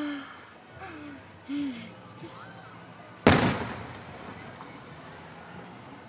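One sharp firework bang about three seconds in, with a short decaying tail, over the steady pulsing chirp of crickets.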